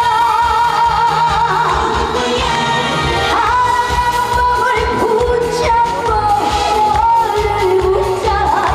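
Live trot band music with a steady beat under a sustained, wavering lead melody.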